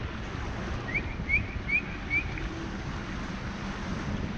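Steady low rumble of a small boat's motor with wind buffeting the microphone. About a second in, four short high rising chirps, evenly spaced, sound over it.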